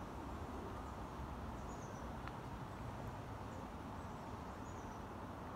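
Steady outdoor background noise with a few faint, short, high bird chirps, one about two seconds in and another near the end.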